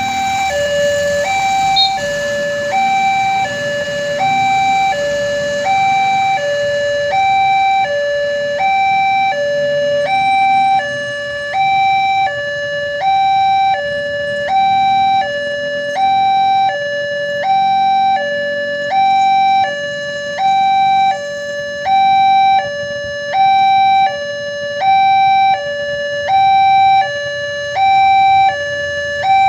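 Railway level-crossing warning alarm sounding, a steady electronic two-tone alternation with high and low notes switching about every three-quarters of a second. A faint low rumble lies underneath.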